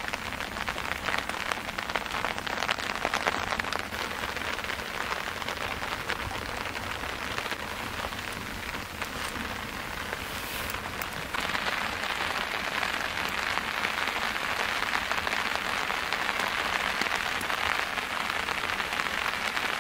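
Rain falling steadily, many separate drop hits over an even hiss, growing heavier and louder about eleven seconds in as the rain comes in.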